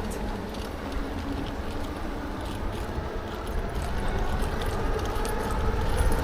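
Riding an e-bike (Lectric XP4): wind rumbling on the microphone with tyre noise and light rattling of the bike, with a faint motor whine; it grows a little louder toward the end as speed picks up.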